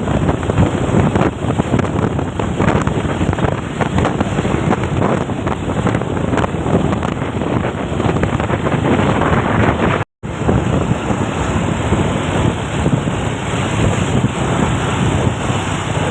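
Wind buffeting the microphone over the steady noise of a moving vehicle, loud throughout. The sound cuts out completely for a split second about ten seconds in.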